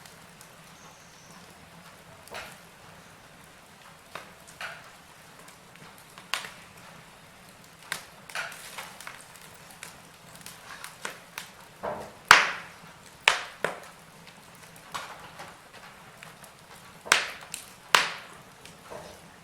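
Wood fire crackling in a fireplace: irregular sharp pops and snaps over a faint steady hiss, with the loudest cracks about twelve seconds in and near the end.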